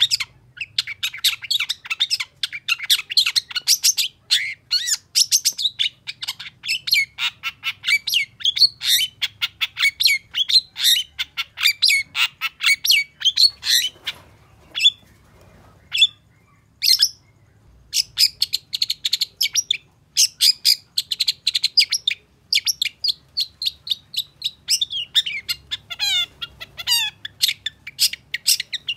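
Long-tailed shrike singing a fast, chattering song of rapid high notes, with a few short breaks about halfway through and some down-slurred notes near the end.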